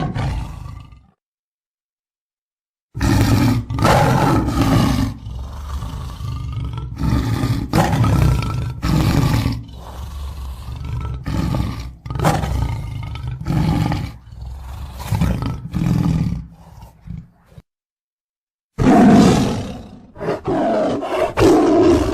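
Bengal tiger roaring: one call fades out about a second in, then after a short gap comes a long series of repeated roars, and after another short silence a final roar near the end.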